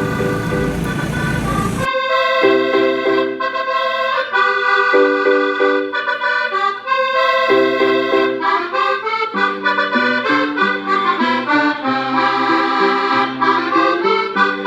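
Accordion playing a tune, a melody over a steady pattern of bass notes and chords. For about the first two seconds it is mixed with street and traffic noise, which cuts out abruptly, leaving the accordion alone.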